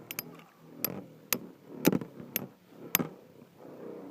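Spinning Beyblade tops clashing in a Tornado Ridge stadium: sharp clicks and knocks at irregular intervals, about seven in four seconds.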